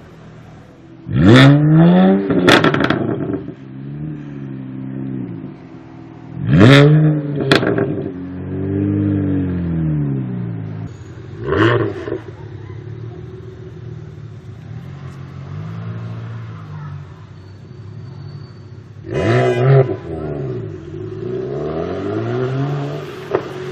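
Tuned BMW 1M's twin-turbo straight-six, decatted, revved in four sharp blips, each sweeping back down to idle. Loud exhaust backfires crack out after the first two blips.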